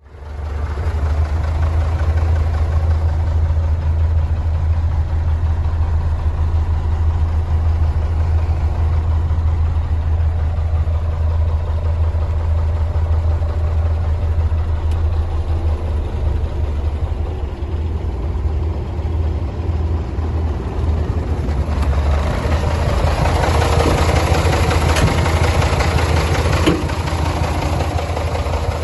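MAN F2000 19.322 truck's inline six-cylinder diesel engine idling steadily with a low drone. Its sound grows louder and brighter a little over two-thirds of the way in.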